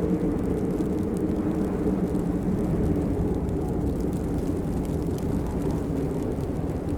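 Steady rain: an even low rumble with a faint patter of drops on top.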